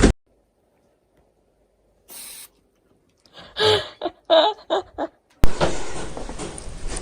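An animal giving about five short, quick calls after a brief noise. A loud, steady rush of wind or engine noise cuts in suddenly near the end.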